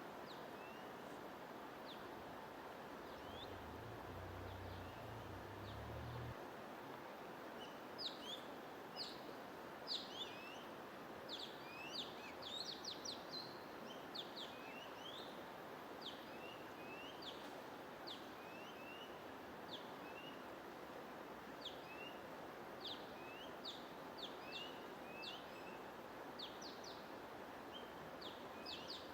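Small songbirds chirping over a steady, even rushing noise bed. The chirps are short and sharp, scattered at first and coming thick and fast from about eight seconds in. A brief low hum sounds about three seconds in.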